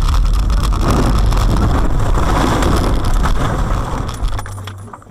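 Car on the move, heard from inside: steady engine and road rumble with wind noise, loud until it drops away sharply near the end.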